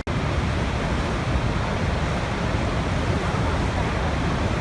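Niagara Falls' massive water roar, a steady dense rumble heaviest in the low end. It cuts out for an instant right at the start.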